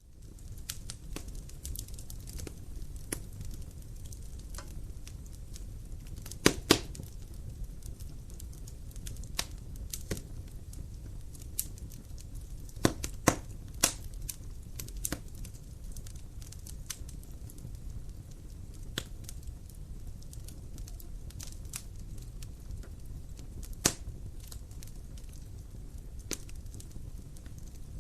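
Wood fire burning in a fireplace: a steady low rumble of flame with scattered sharp crackles and pops, the loudest a quick pair about six and a half seconds in and a cluster around the middle.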